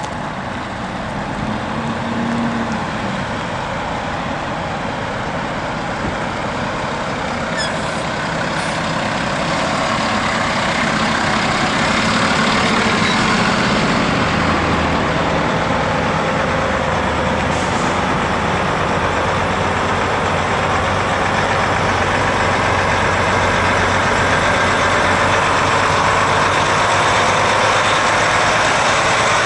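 Heavy trucks' diesel engines running, getting louder about ten seconds in, with a low steady engine drone from about halfway.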